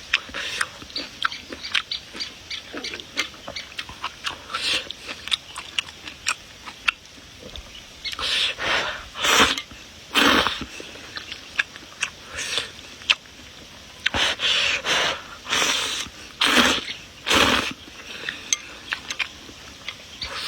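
Close-miked eating: quick wet smacks and chewing clicks, with two clusters of loud half-second slurps, one about eight to ten seconds in and one about fourteen to seventeen seconds in.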